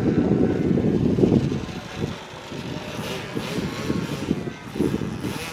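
Engine of a propeller plane running at low power as it comes in to land. The sound is loudest for the first two seconds, then falls away.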